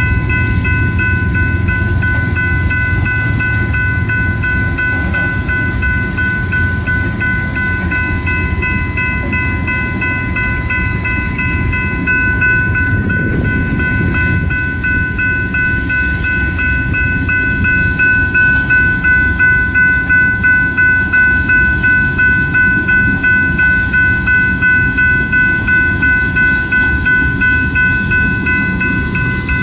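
Loaded tank cars of a freight train rolling past with a steady low rumble of wheels on rail, and a grade-crossing warning bell ringing throughout. About two-thirds of the way in, the wheel noise turns into a regular clatter, roughly one and a half beats a second.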